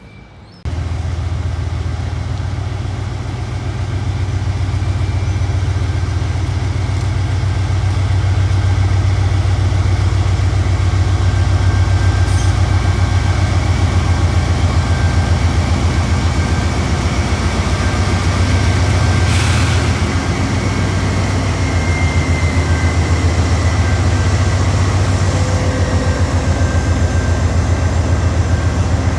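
Freight train passing close by: a loud, steady, heavy low rumble that starts abruptly about half a second in, with a short sharp sound about two-thirds of the way through.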